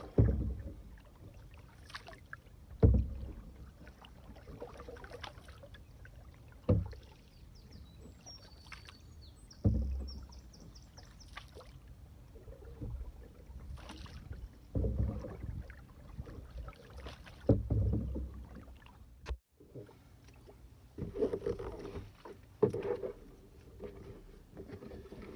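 Canoe paddling: a paddle dipping and pulling through the water every few seconds, each stroke a splash with a low thump, against a steady wash of water and light wind.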